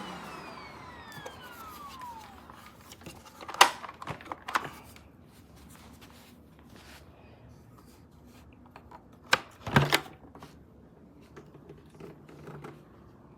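Upright vacuum cleaner's motor winding down after being switched off, a falling whine that fades out over the first couple of seconds. Then come a few sharp knocks and clicks, the loudest a bit over three seconds in and near ten seconds, as the machine is handled.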